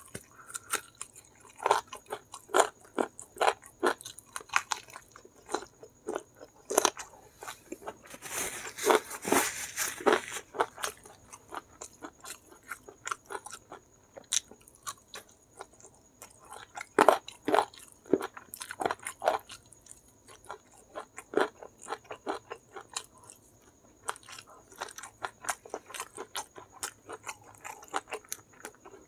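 Close-up chewing, biting and crunching of a Kentucky-style crispy fried chicken drumstick, with many short wet clicks and smacks. There is a denser stretch of crunching about eight to ten seconds in.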